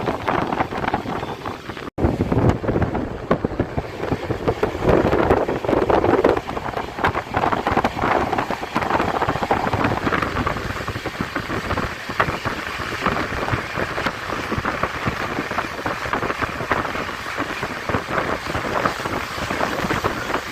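Express passenger train running at speed, a dense steady rush of wheel and rail rattle with wind buffeting the microphone. The sound drops out for an instant about two seconds in.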